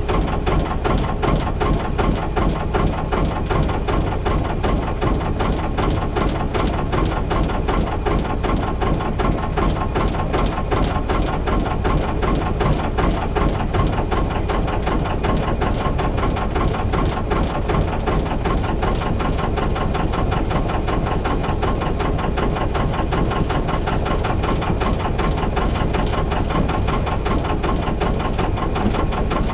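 Albin 2D marine inboard engine running steadily, a continuous even beat with no change in speed.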